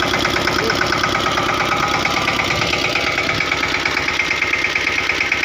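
Mahindra Yuvraj 215's single-cylinder diesel engine running steadily at a fast, even putter.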